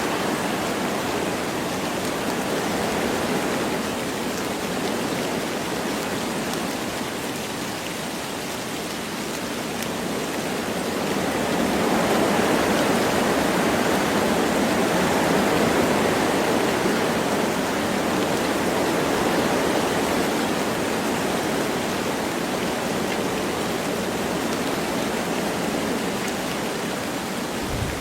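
Wind blowing through forest trees with light rain falling, a steady rushing noise that eases a little and then swells about halfway through.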